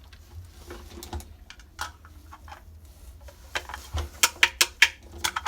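Small plastic toy kitchen pieces clicking and tapping as they are handled. The taps are scattered at first, then come as a quick run of sharp, louder clicks in the second half.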